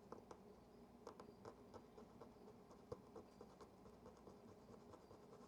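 Faint, irregular scratching and small clicks of scrubbing oxidation off the Yashica Electro 35 GSN's battery compartment contacts.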